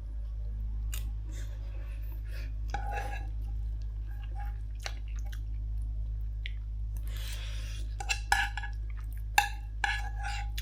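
A person chewing food, with scattered small clicks and taps, over a steady low hum.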